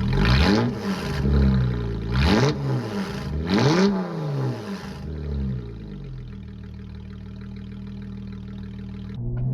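V6 engine running through a Solo Performance aftermarket exhaust (new H-pipe back to the muffler), blipped three times, each rev rising and falling back. It then settles to a steady, quieter idle from about five seconds in.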